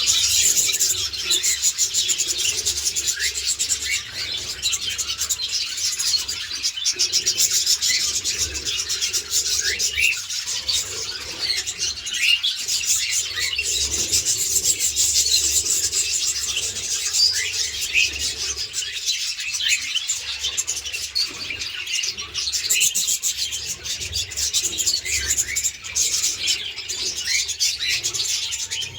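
Small pet parrots chattering nonstop in an aviary, a dense mass of quick scratchy chirps and twitters, over a low steady hum.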